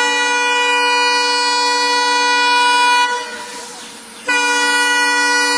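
Locomotive air horn sounding two long blasts, a steady chord of several tones: the first lasts about three seconds, and the second starts about a second after it ends.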